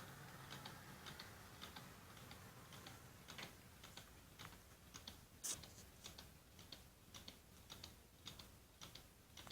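Home-made low-temperature Stirling engine running, its mechanism giving faint, quick clicks, about two to three a second, with one louder click about five and a half seconds in.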